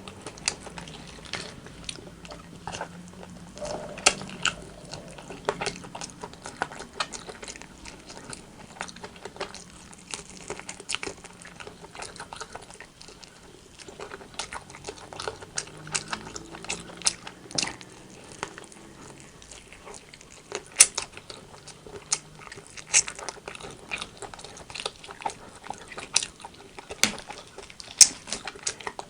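Person eating rotisserie chicken: biting and chewing with many irregular sharp wet mouth clicks and smacks, a few louder ones in the second half.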